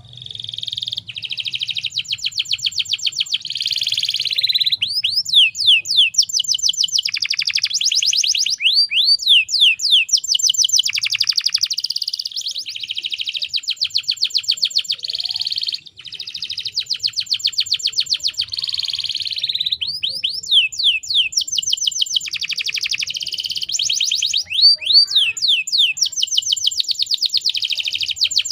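Domestic canary singing a long, continuous song of rapid trills and rolls, phrases changing every second or two with a brief break about halfway through.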